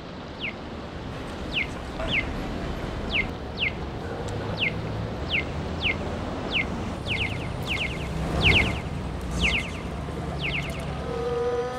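A bird calling outdoors: a short, high, falling chirp repeated roughly every half second, later in quick doubles and triples, over a steady low rumble, with a brief louder noise about eight seconds in.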